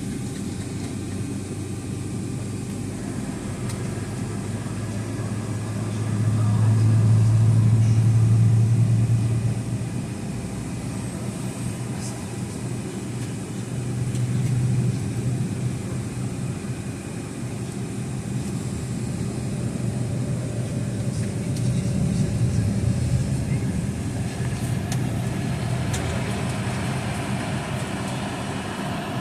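Boeing 757 cabin noise during taxi: the Pratt & Whitney PW2037 turbofans run with a steady low hum and rumble. The hum swells louder from about six to ten seconds in, and rises again more briefly twice later.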